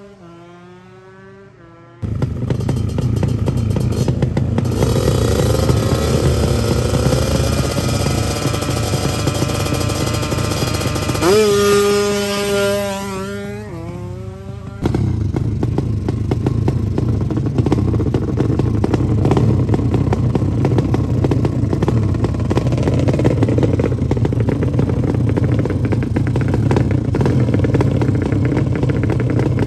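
Drag-racing motorcycle engines running loud at high revs. The sound starts suddenly about two seconds in and rises in pitch, dips briefly with a rising-then-falling engine tone about halfway, then comes back loud again.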